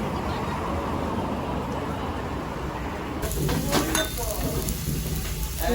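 Steady city street noise with a low traffic hum. About three seconds in it changes abruptly to people's voices and sharp clicks and clatter.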